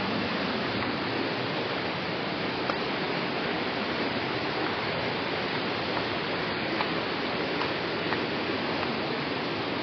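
Rushing water of a waterfall or stream: a steady, even rush, with a few faint ticks.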